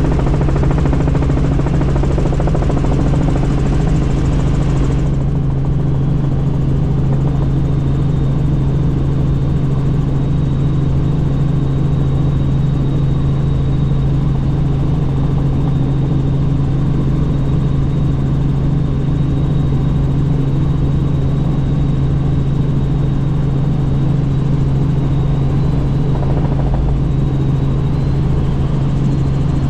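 Helicopter in flight, heard from the cabin: a steady low drone. A rushing hiss over it drops away sharply about five seconds in, leaving a thin steady high whine.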